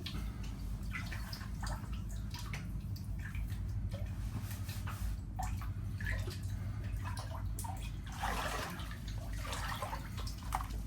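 Water dripping and splashing, scattered drops and trickles over a steady low rumble, with a busier spell of splashing about eight seconds in.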